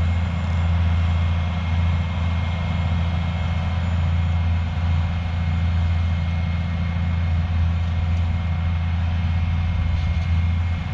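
Diesel engine of a Kleine sugar beet harvester running steadily: a deep, even drone with a thin high whine above it.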